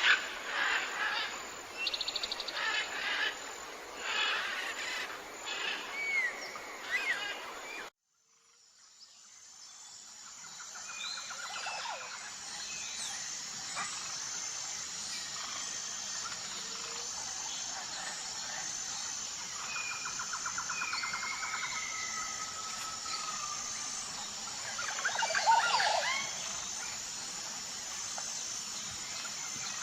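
Tropical forest birds calling, a dense mix of chirps and whistles. About 8 s in, the sound cuts out briefly and fades back in to a different forest ambience. There a steady high pulsing tone runs under rapid trills and whistled calls, with a louder flurry of calls a few seconds before the end.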